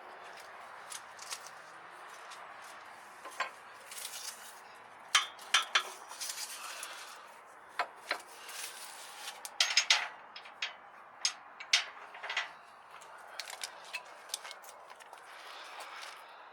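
Irregular sharp metallic clinks and rattles from metal parts or tools being handled, with a faint steady hiss underneath.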